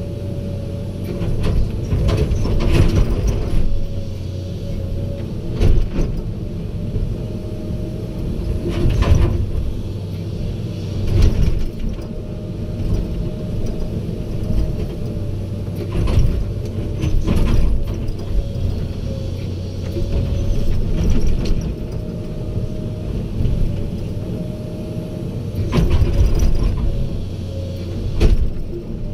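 Heavy diesel machinery running steadily, with a constant low engine drone and a steady whine, broken by irregular knocks and clanks.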